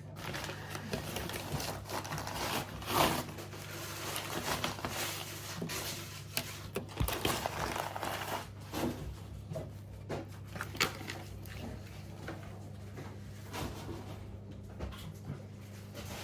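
Packaging and vacuum cleaner parts being handled: irregular rustling with scattered clicks and knocks, over a steady low hum.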